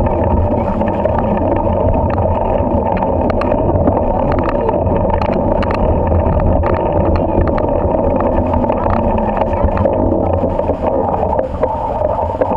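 Loud, steady rumble of riding noise on the microphone during a bike ride, with scattered short clicks and rattles.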